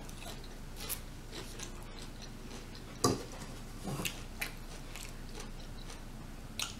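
A person eating into a close microphone: chewing and biting food, with a few short, sharp mouth clicks and smacks, the loudest about three seconds in.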